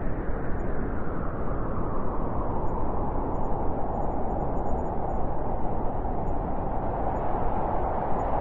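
Blizzard wind howling: a steady rushing roar with a howl that slides down a little in pitch and grows stronger about halfway through.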